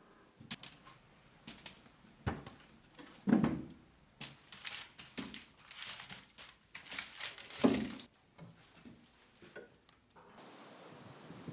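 Irregular crinkling and rustling of something being handled and crumpled, loudest twice, about three seconds in and near eight seconds. A steady hiss begins near the end.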